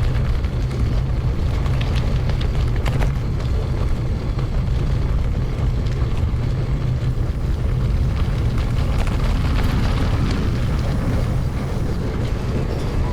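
Wind buffeting the microphone of a camera riding along on a mountain bike on a forest road: a steady low rumble with scattered short clicks and rattles, sped up to double speed.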